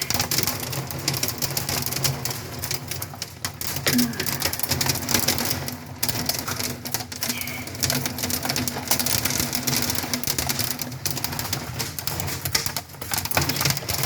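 Hail and heavy rain beating on the house and windows: a dense, irregular rattle of small impacts over a steady hiss, with a low hum underneath.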